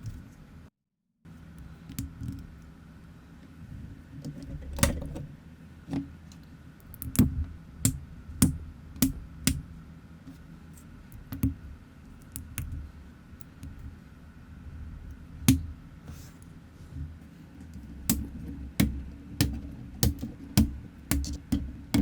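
Plastic LEGO-style building bricks being handled and pressed together: irregular sharp clicks, coming in quicker runs near the end.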